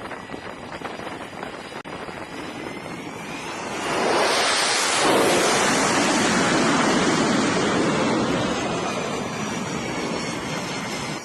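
Wind and sea noise on the microphone, then about four seconds in a loud rush of aircraft engine noise swells in with a faint whine, holds for several seconds and slowly fades as an aircraft passes close.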